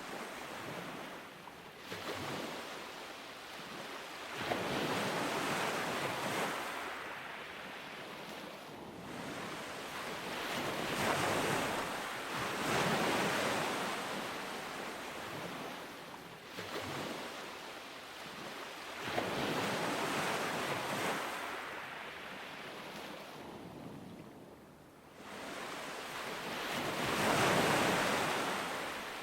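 Ocean waves breaking on a beach, each surge of surf swelling and washing back every few seconds, with some wind on the microphone.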